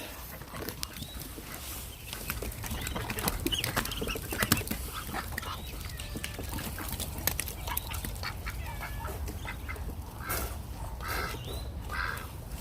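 Ducks quacking, a few short harsh quacks near the end, over scattered small clicks and a low steady rumble.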